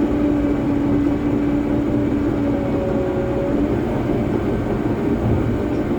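Cat D3 Next Gen bulldozer's diesel engine running steadily while working, with a steady whine over the rumble.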